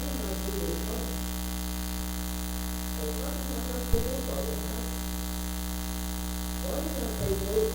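Steady electrical mains hum in the recording, the fault behind its bad sound, under faint, muffled speech. A single sharp knock comes about four seconds in.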